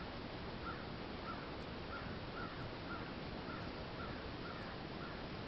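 A bird calling over and over, a short chirp repeated evenly about twice a second, over a steady background hiss.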